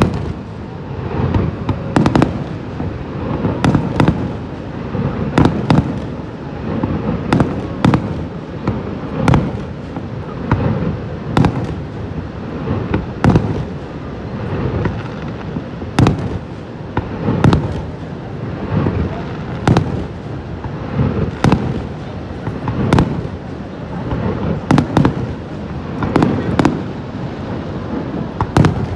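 Aerial fireworks shells bursting one after another, a sharp bang every second or two, with deep rumbling echoes between the bangs.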